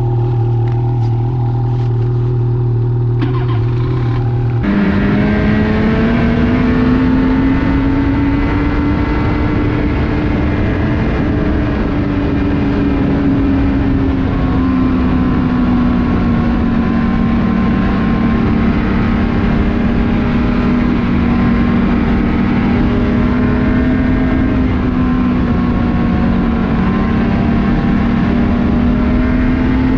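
Ski-Doo Renegade 600R snowmobile's two-stroke twin engine idling steadily, then pulling away about four and a half seconds in. It then runs along the trail, its pitch rising and falling gently with the throttle.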